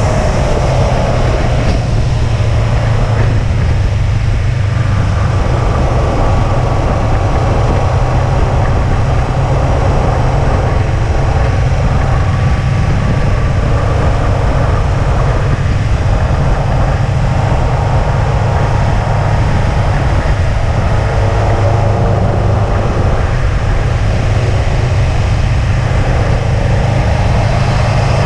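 2005 Subaru WRX wagon's turbocharged flat-four engine running at a steady, moderate pace with a constant low drone, under even road and wind noise.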